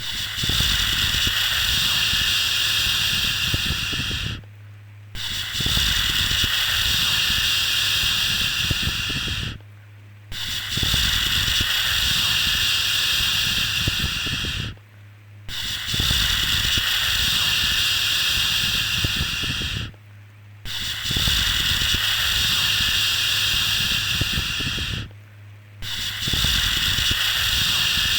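Long 'shhh' shushing sound, each shush lasting about four and a half seconds, then a brief pause before the next, repeating about every five seconds over a low steady hum: a soothing shush for settling a baby to sleep.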